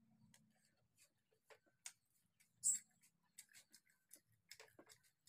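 Faint mukbang eating sounds: scattered wet mouth clicks and smacks while chewing a handful of rice, with fingers scraping rice together on paper. One sharper smack comes about two and a half seconds in.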